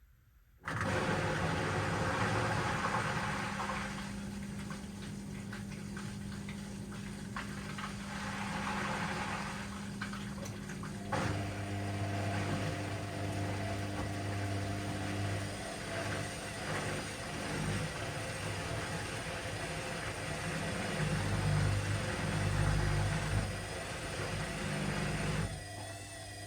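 Washing machine starting up again after a pause and running, its motor and turning drum giving a steady hum over a noisy swish. The sound shifts about eleven seconds in and dips briefly near the end.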